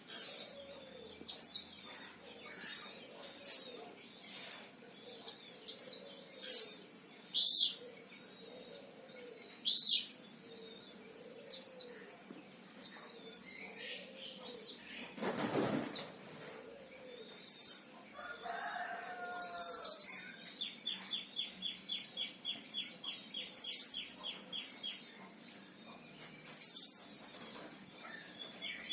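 Mantenan Himalaya songbird singing: loud, sharp high chirps and short phrases repeated every second or two, with a fast ticking rattle about two thirds of the way through. A brief rushing noise comes about halfway.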